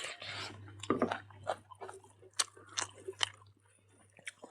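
Food being bitten and chewed, with about six sharp crunching clicks, over a low steady hum.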